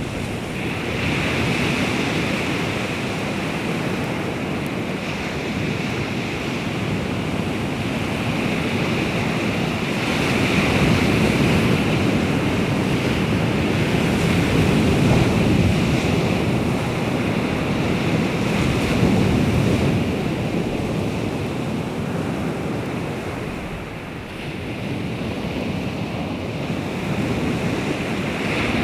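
Sea waves washing on the shore in a steady surge, with wind buffeting the microphone. The surf grows louder through the middle and eases briefly near the end.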